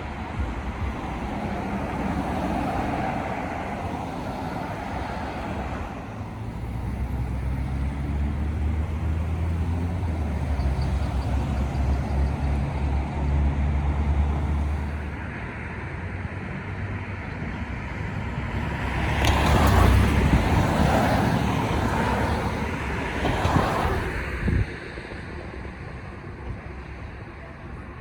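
Road traffic: a heavy engine running with a low hum, then louder vehicle noise swelling up about twenty seconds in, as of a vehicle passing close by.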